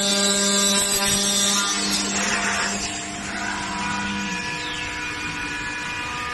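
A 4-axis CNC machining center with its spindle running and cutting into aluminium profile: a steady machine whine over harsh cutting noise. The pitch of the whine shifts about three to four seconds in.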